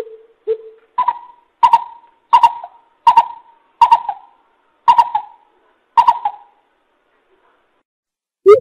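A coucal calling a series of hollow hoots, about nine notes spaced under a second apart, the first two low and the rest pitched higher, stopping about two-thirds of the way in. A faster run of lower hoots starts right at the end.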